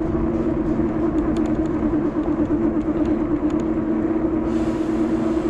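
A steady low motor hum under a rush of wind and road noise, with a higher hiss coming in near the end.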